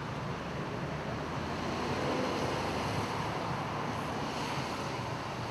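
Steady road traffic noise, swelling slightly around two to three seconds in.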